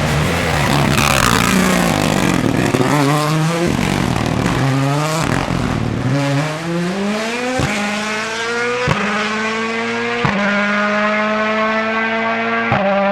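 Ford Puma Rally1's 1.6-litre turbocharged four-cylinder rally engine accelerating hard through the gears. A dense, loud rush comes first, then the engine note climbs and drops back with each upshift, several times. The later shifts each come with a sharp crack, and the gaps between them grow longer.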